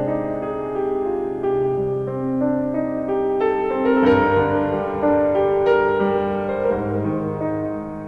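Slow, gentle piano music: sustained chords over held bass notes, changing about once a second.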